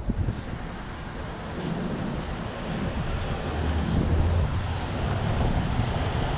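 Wind buffeting the microphone of a bike-mounted action camera while riding, a steady low rumbling rush that grows a little louder toward the end.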